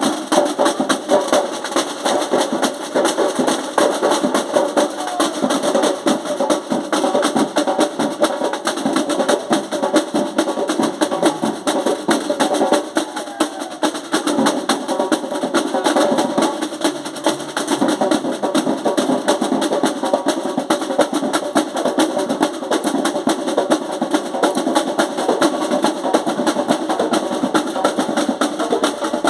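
A drum group playing together: continuous dense drumming with many overlapping strokes, and no break in the rhythm.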